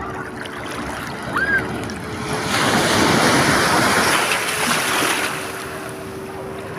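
Sea waves breaking on a sandy beach: the surf swells to its loudest from about two and a half to five seconds in, then eases, over a steady low hum.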